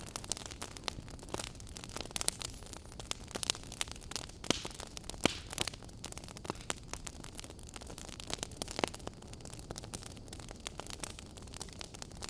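Campfire burning with a steady low rush and irregular sharp crackles and pops of burning wood, several louder pops scattered through.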